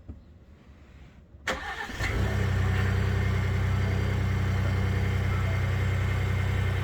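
Ford 3.5 EcoBoost twin-turbo V6 of a 2021 F-150 cold-starting about a second and a half in with a sharp click, then settling into a steady idle. No startup rattle is heard: the oil pressure was built up before starting, and the owner takes the usual rattle for a cam phaser oiling issue.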